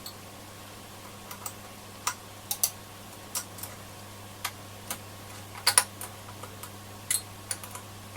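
Small sharp irregular clicks of a metal hand tool and freed wire ends tapping on a transistor radio's circuit board as desoldered wires are picked out, with a quick cluster of clicks a little past the middle. A faint steady low hum runs underneath.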